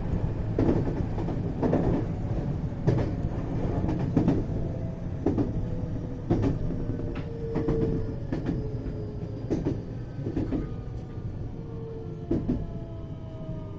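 521 series electric train running on the rails, heard inside the motor car: a steady rumble with wheel clicks over rail joints about once a second and the motor's whine gliding down in pitch as the train slows to a stop for a station.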